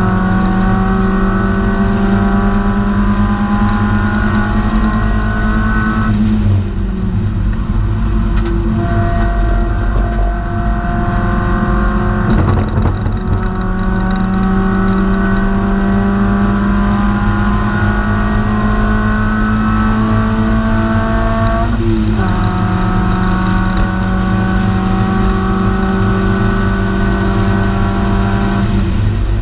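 Mazda MX-5 NB's 1.8-litre four-cylinder engine under hard acceleration on a race track, heard from inside the cabin, its pitch climbing slowly with sudden drops about six seconds and 22 seconds in. Tyre and wind noise run underneath.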